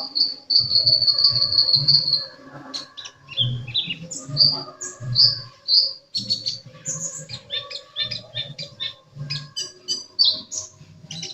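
A sunbird (Indonesian 'kolibri') singing vigorously: a long run of high, thin whistles, downslurred notes and quick chirps. It opens with a held whistle and turns into a denser, rapid twittering from about halfway through.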